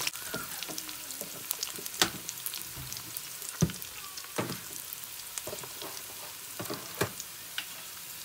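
Sliced onions and whole garam masala spices (bay leaves, cinnamon, cardamom) sizzling in hot oil in a nonstick pan. A wooden spatula stirs them, knocking and scraping against the pan about six times at uneven intervals.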